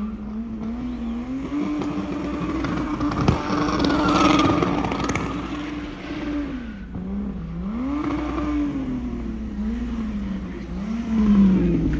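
A sports car's engine revving up and dropping back again and again, its pitch swinging rather than staying steady, as during a drift or slalom run. There is one sharp crack about three seconds in.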